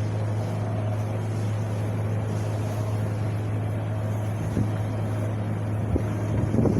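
Steady wind blowing, with a constant low rumbling drone beneath it.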